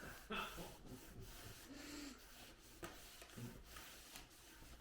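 Faint rubbing of a rag working wood stain into wood, with one light click about three seconds in.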